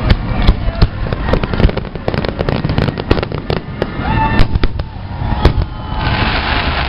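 Fireworks salute going off, many sharp bangs and crackles in quick succession. A steadier, denser noise takes over near the end.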